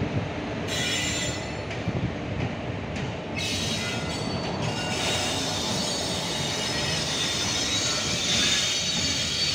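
Electric-locomotive-hauled passenger train rolling along the station tracks, its wheels squealing high on the rails over a steady rumble. The squeal comes and goes at first and grows stronger and continuous from about three seconds in.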